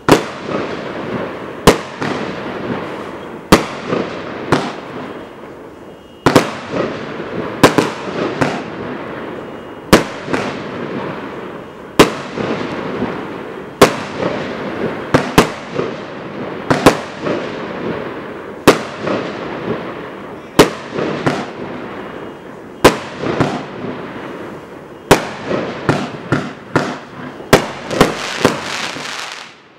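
A 36-shot, 1-inch fireworks cake firing shot after shot: sharp bangs about one to two seconds apart, coming faster near the end, with a dense crackling between them from the bursting stars.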